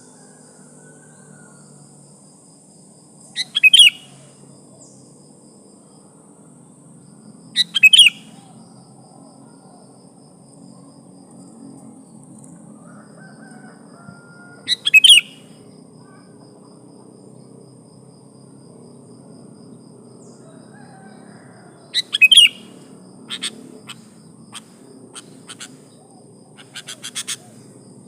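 Female sooty-headed bulbul calling for a male: four short, loud calls spaced several seconds apart, followed near the end by a run of short sharp clicks. A faint steady high hiss runs underneath.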